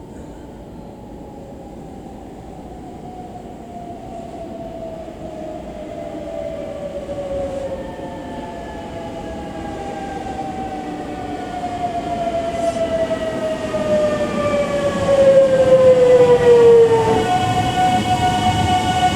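A 681/683-series electric limited express train approaching, getting steadily louder, with its motor whine sliding slowly down in pitch. It is loudest about 16 seconds in, and after about 17 seconds the falling whine gives way to a steady, higher whine.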